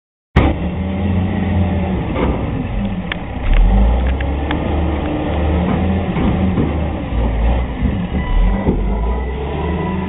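Heavy truck engine running, a loud low rumble with a few sharp knocks or rattles through it.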